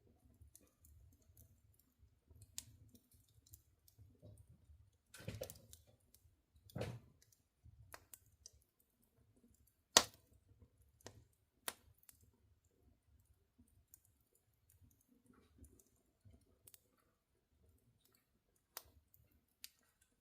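Charcoal and wood fire in a firebox crackling faintly, with scattered sharp pops and one loud snap about ten seconds in. Two duller shuffling knocks come around five and seven seconds.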